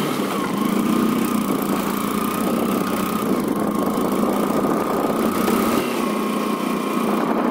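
Small 100cc single-cylinder motorcycle engine running steadily while the bike rides along, with wind and road noise.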